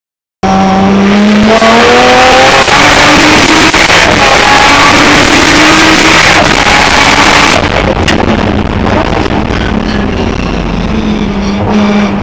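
Heard from inside the cabin, an R33 Nissan Skyline GTS-T's turbocharged straight-six at full throttle, its pitch climbing in steps through the gears. About seven and a half seconds in it eases off, then builds again near the end.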